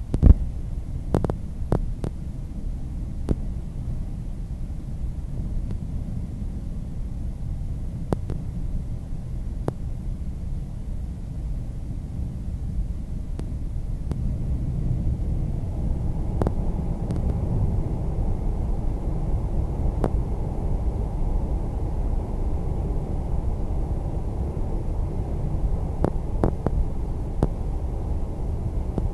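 Korail passenger train running at speed, heard from aboard: a steady low rumble of the wheels on the rails, with scattered sharp clicks. The rumble grows a little louder about halfway through.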